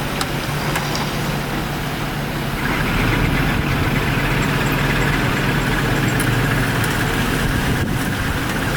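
Heavy diesel engine of earthmoving machinery running steadily. About two and a half seconds in it grows louder, with a higher whine added.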